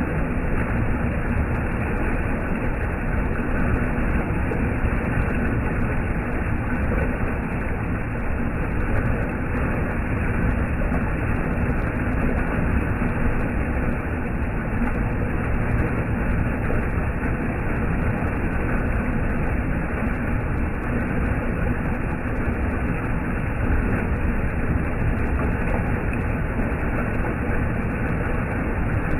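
Water of a mountain valley stream rushing steadily: a dense, even noise with a deep low rumble and no breaks.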